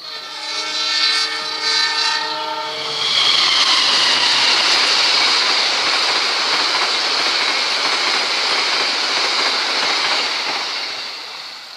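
Diesel passenger locomotive sounding its chord horn in a long blast, the semboyan 35 warning for the level crossing, which stops about three seconds in. Then the coaches rush past with a loud, steady noise of wheels running and clattering on the rails, which fades near the end as the train goes by.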